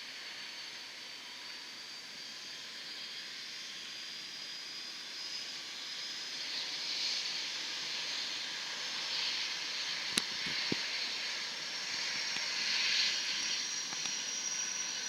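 Jet aircraft engines whining over a steady hiss, the high whine slowly rising in pitch. A single sharp click about ten seconds in.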